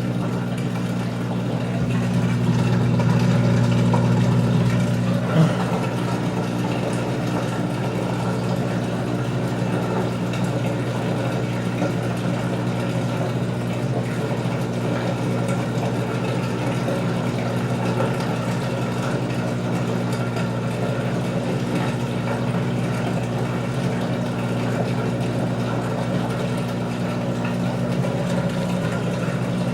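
2006 GE Profile top-load washer's drain pump running with a steady hum, pumping out the water at the end of the rinse. It swells slightly for a few seconds about two seconds in, with a single short knock just after.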